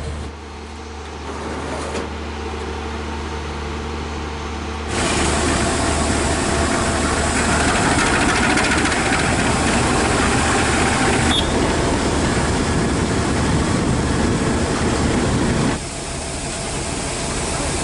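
Passenger train noise: a diesel locomotive engine running with a steady low hum, then a sudden, louder rushing noise of the running train from about five seconds in that drops off abruptly near the end.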